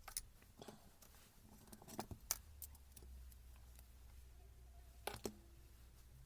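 Scattered light clicks and knocks of small parts being handled during a tool repair, the sharpest about two seconds in and again near the end, over a low hum that starts about halfway through.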